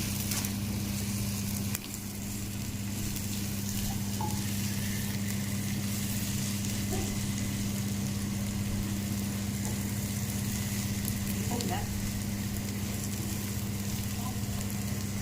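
Sambal base of onions and ground anchovies frying in oil in a pan, sizzling steadily as it is stirred now and then. A steady low hum runs underneath.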